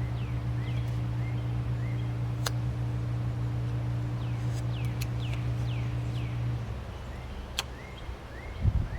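Birds chirping repeatedly over a steady low hum that stops about two-thirds of the way through, with two sharp clicks and a few low thumps near the end.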